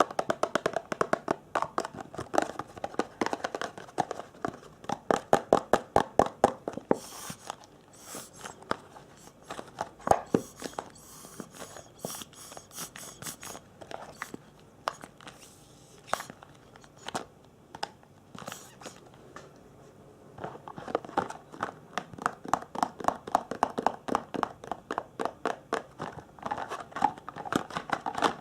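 Fast tapping, many taps a second, loudest in the first several seconds and again in the last eight or so, with quieter crisp ticking and scraping in between.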